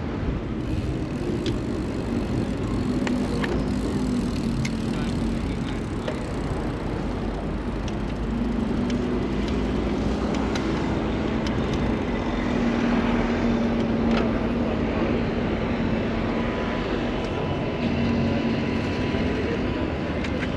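Road traffic on a busy city street: a steady mix of car engines and tyre noise, with a few faint clicks.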